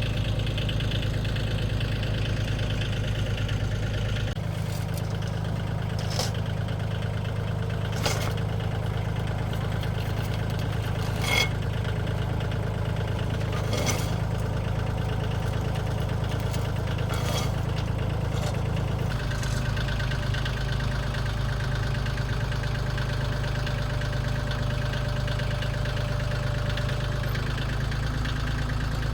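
Old car engine idling steadily, with a few sharp metallic clicks over it in the middle stretch.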